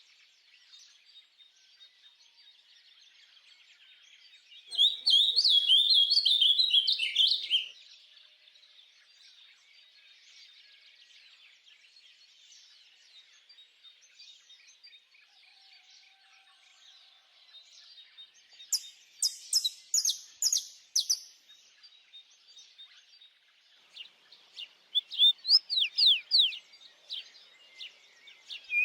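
Songbirds singing over a faint, steady chorus of many distant birds, with a loud burst of rapid twittering song about five seconds in, a run of sharp high notes around twenty seconds, and quick falling whistles near the end.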